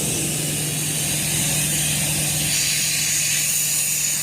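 An engine running steadily with a low hum, with a constant hiss of air over it.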